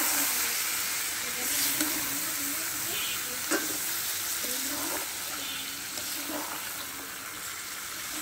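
Chicken, potatoes and masala sizzling in a hot metal karahi while a metal spatula stirs and scrapes through them, with two sharp knocks of the spatula against the pan in the first half.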